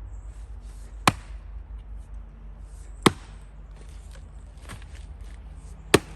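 Double-bit axe chopping into firewood: three sharp strikes about two to three seconds apart, with lighter knocks of wood between them.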